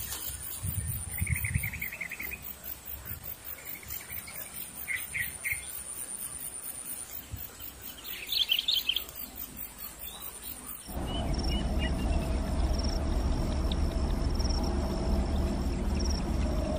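Birds chirping in a few short bursts over a quiet outdoor background. About two-thirds of the way in, the background changes abruptly to a louder steady hiss with a low drone and a steady high-pitched tone, most likely insects.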